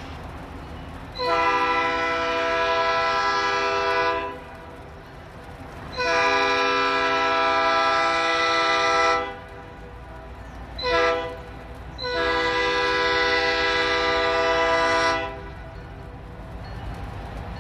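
A locomotive sounding its multi-note chime in the standard grade-crossing signal: two long blasts, one short, then a final long blast, warning that the train is approaching a road crossing.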